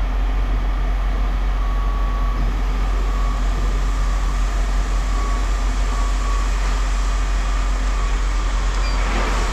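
Steady low rumble of machinery running, with a faint steady whine on top.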